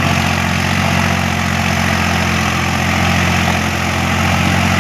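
Swaraj tractor's diesel engine running steadily at an even speed.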